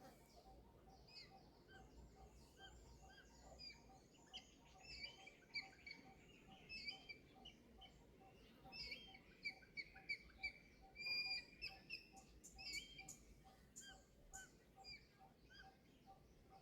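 Birds chirping faintly in the background, many short calls overlapping. Beneath them a faint low note repeats evenly about three times a second.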